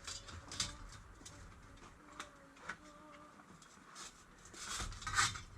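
Scattered small metallic clicks and knocks from rivets and tools being handled while riveting leather straps to a steel breastplate, with a louder cluster of knocks about five seconds in.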